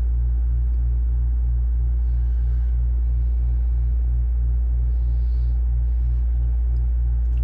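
Steady low electrical-sounding hum with a buzz that pulses about four times a second over it, with a few faint short hisses.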